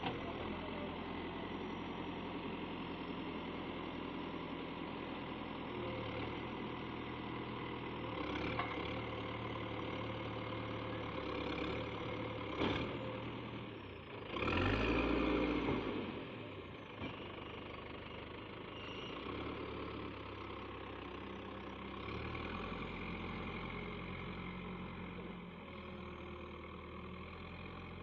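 Heavy diesel engine running steadily. About fourteen seconds in it surges louder for about two seconds, then settles back.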